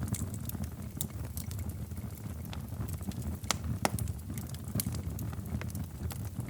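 Wood fire in a fireplace crackling: irregular sharp pops and snaps over a low steady rumble, with two louder pops a little past halfway.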